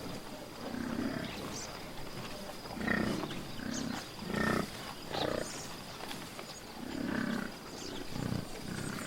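Buffalo calling: a series of low, rough calls every second or two, with faint high chirps in the background.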